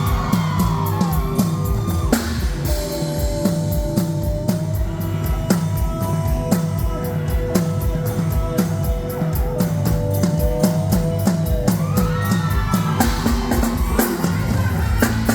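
Live band playing an instrumental passage of a Thai pop-rock song: drum kit keeping a steady beat under a lead melody with bending notes.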